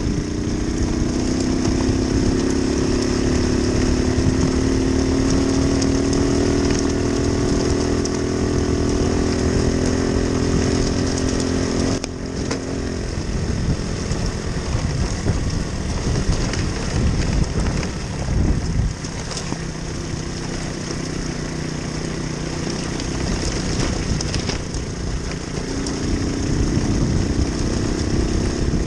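Moped engine running at speed with a steady drone, easing off sharply about twelve seconds in, running lower for a while, then picking up again near the end, with steady wind and road noise underneath.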